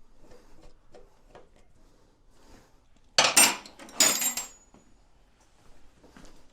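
Metal parts and tools being handled and clattering, with two loud clanks a little over three and four seconds in, the second ringing briefly.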